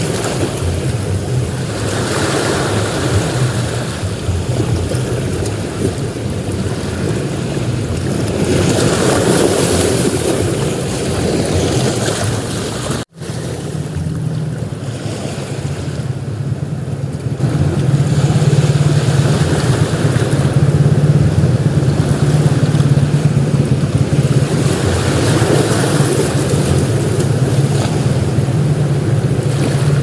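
Ocean surf breaking on a beach, the wash swelling and fading every several seconds, with wind rumbling on the microphone. The sound cuts out for a moment about halfway through, then the wind rumble runs stronger.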